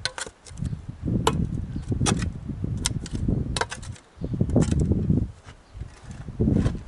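Sharp clinks and knocks of hard masonry pieces being handled, a dozen or so scattered irregularly, over wind rumbling on the microphone.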